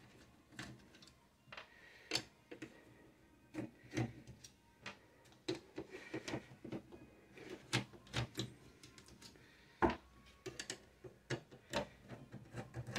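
Scattered small clicks and taps of a screwdriver working the four small screws that hold the cooling fan in a PC power supply, loosening them to take the fan out.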